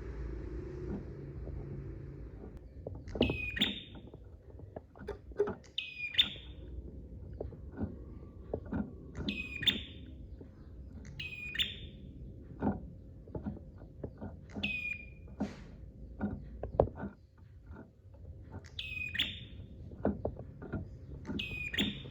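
Prinia (prenjak) calling: about seven short, sharp, high notes spaced a couple of seconds apart, over a low rumble with scattered clicks.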